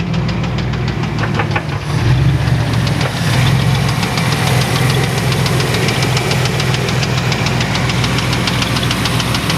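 A 1994 Chevrolet Astro van's 4.3-litre V6 engine idling steadily, with a fast, even ticking or knocking over the hum. The engine makes this noise with or without the drive belt fitted, and its oil pressure reads low and fluctuating.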